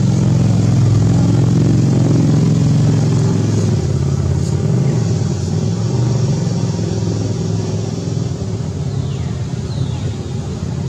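A steady, loud, low rumble like a motor vehicle engine running, easing off slightly over the last few seconds.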